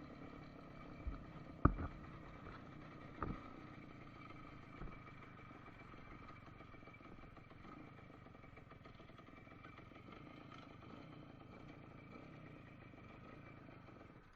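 Voskhod motorcycle's two-stroke single-cylinder engine running steadily, heard faintly, with two short sharp clicks about one and a half and three seconds in.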